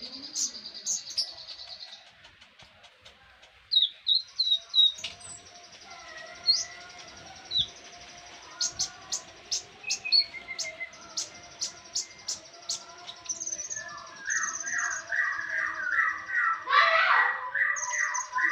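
Sunbird (konin, kolibri ninja) song for songbird training: high chirps and short trills, then a run of sharp, evenly spaced ticking notes about two a second, turning into a louder, dense warbling twitter near the end.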